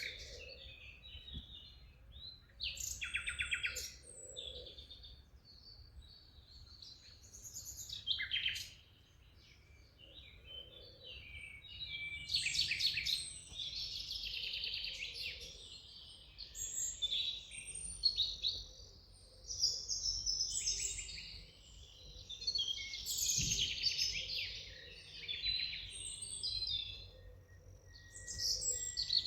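Several songbirds singing and chirping together in quick, overlapping phrases and trills, over a faint low rumble.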